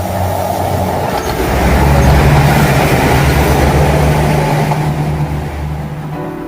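Train passing by, its sound swelling to a peak about two seconds in and fading away near the end, with a low steady drone underneath.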